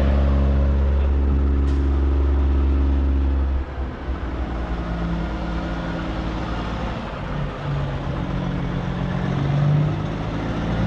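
Heavy-truck diesel engine idling close by, with a deep rumble for the first three and a half seconds that then eases; its note lifts slightly near the end.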